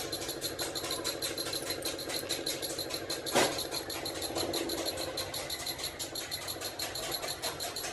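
An engine running steadily with rapid, even ticking, about eight ticks a second, and one louder knock about three and a half seconds in.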